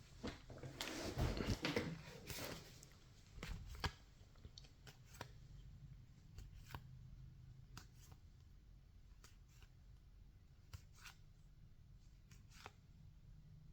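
Topps baseball trading cards handled and flipped through one by one: a stretch of rustling in the first couple of seconds, then soft, scattered flicks as individual cards are slid past.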